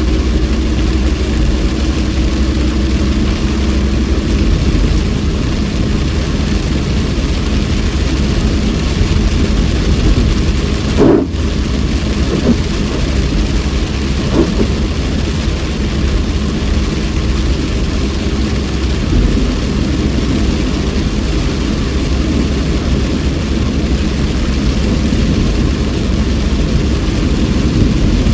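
Steady cabin noise of a car driving on a rain-soaked road: the engine runs with tyre and road hiss. There is one brief knock about eleven seconds in.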